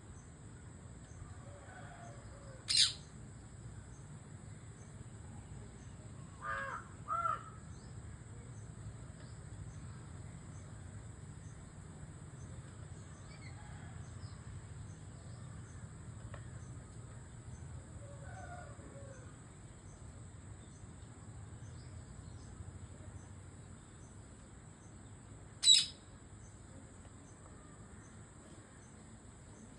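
Indian parrot giving a few short, shrill calls: one about three seconds in, a quick pair a few seconds later, and one more near the end. Fainter calls of other birds can be heard between them.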